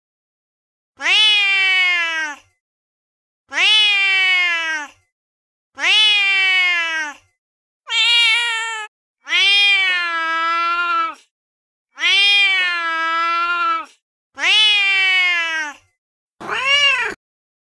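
Recorded domestic cat meows played one after another: eight separate meows, each one to two seconds long and mostly rising then falling in pitch, with silence between them. The last one, near the end, is shorter.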